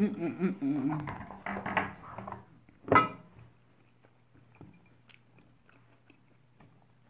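A person chewing and biting french fries, with a humming voice over the chewing in the first two seconds or so. About three seconds in comes one sharp, loud knock, followed by faint mouth clicks.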